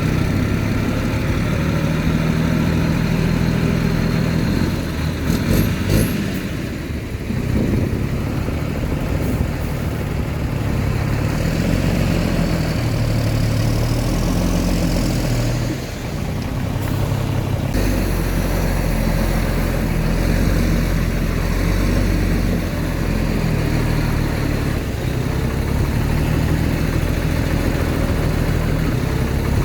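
Heavy diesel engine of earthmoving machinery running steadily, its pitch stepping up and down as it works, with a few sharp clanks about six and ten seconds in and a deeper rumble from about halfway.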